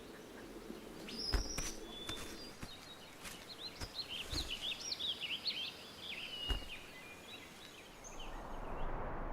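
A run of quick, high-pitched, bird-like chirping calls over a quiet forest background, with a few soft knocks. An even hiss rises near the end.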